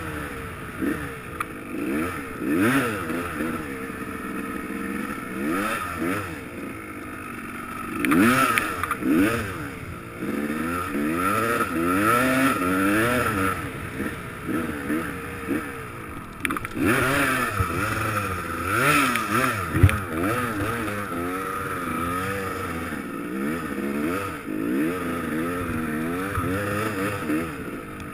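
Dirt bike engine revving up and down over and over as it is ridden, with one sharp knock about twenty seconds in.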